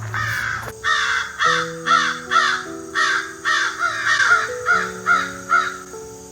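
A bird giving a rapid series of harsh calls, about two a second, which stop about a second before the end. Soft background music with held notes plays underneath.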